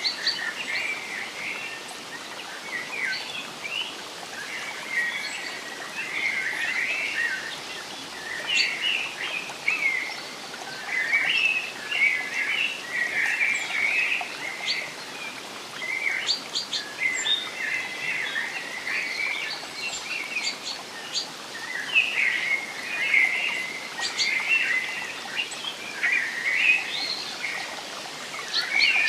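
Forest songbirds chirping and twittering without pause in quick clusters of short calls, over a steady soft hiss of background noise.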